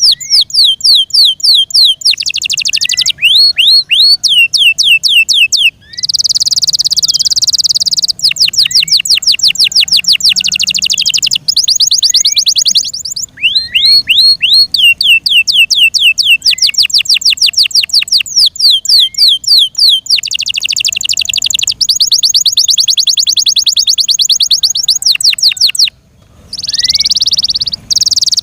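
F1 Yorkshire canary singing loudly: long trills of rapidly repeated, falling notes, broken by denser buzzy rolls and a few brief pauses.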